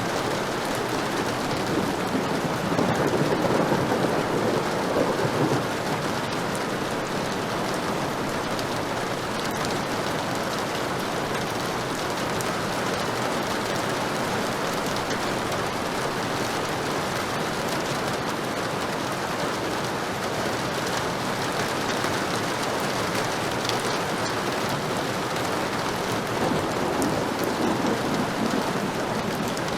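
Steady heavy rain, with two low rolls of thunder swelling up, one about three seconds in and one near the end.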